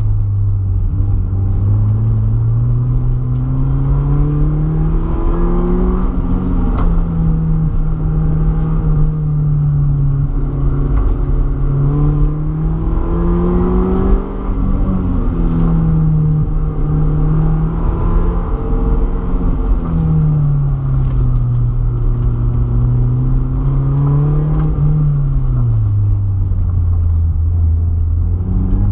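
BMW E36 318ti's four-cylinder engine driven hard, its pitch repeatedly climbing as it accelerates and falling as the driver lifts or shifts, with a brief drop in loudness about 14 seconds in.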